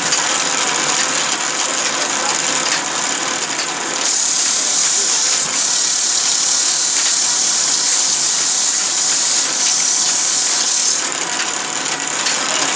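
Sawmill machinery running steadily, with a strong high hiss. It turns louder and hissier about four seconds in and eases back near the end.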